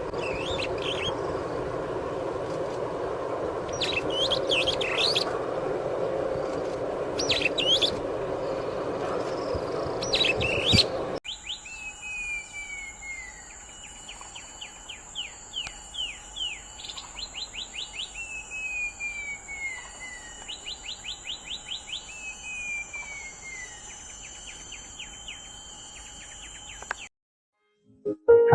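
Wild songbirds chirping, first as short high calls over a steady background noise. About eleven seconds in, the recording changes abruptly to another bird's song: repeated falling whistled notes alternating with rapid trills, over a steady high-pitched tone.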